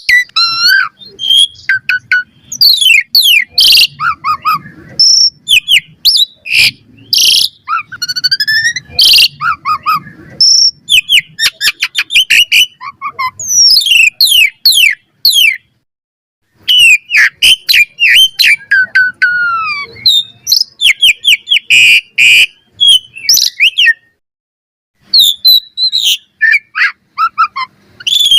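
Asian pied starling (jalak suren) singing a fast, varied string of whistles, chirps and falling slurred notes, broken by short pauses and a couple of silent gaps.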